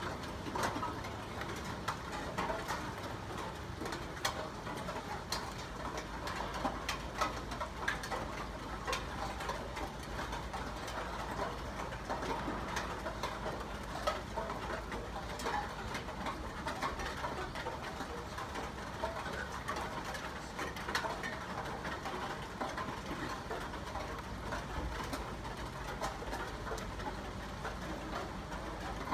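Steady rain, with scattered drops ticking sharply on nearby surfaces.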